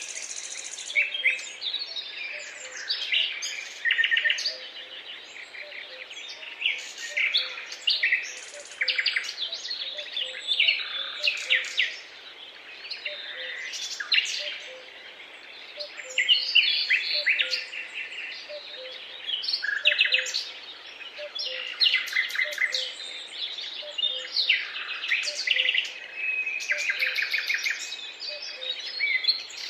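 Several songbirds singing at once, a dense chorus of overlapping chirps, whistles and rapid trills, with soft low notes repeating faintly underneath.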